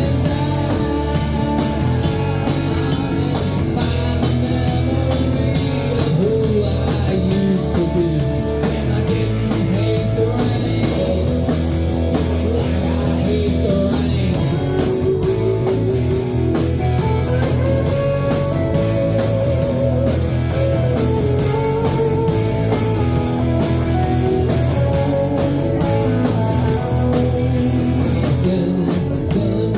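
Rock music played by a band: guitar over a steady drum beat, with singing.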